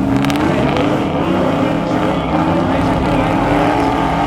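Truck engine running hard at high revs, its pitch wavering and then climbing slowly in the second half.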